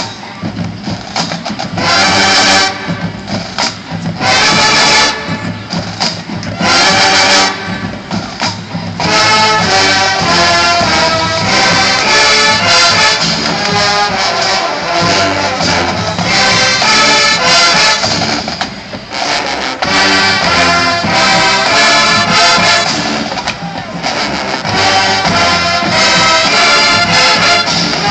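Marching band playing: three loud brass chords about two and a half seconds apart with quieter drumming between, then the full band of brass and percussion playing on without a break from about nine seconds in.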